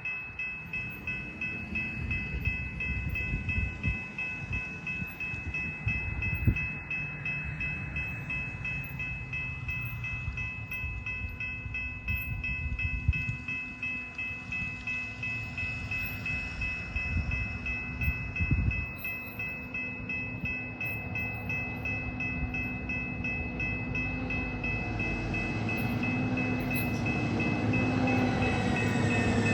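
Rail maintenance vehicle running on the track: a low rumble with a quick rhythmic pulsing, a steady high tone held over it, growing louder near the end.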